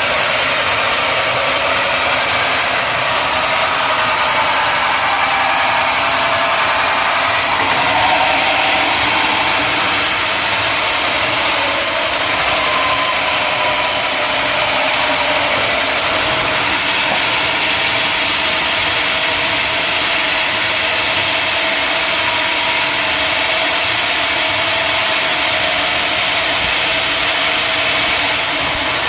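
Engine-driven sawmill saw running steadily through acacia wood, a loud constant mechanical noise with small shifts in pitch.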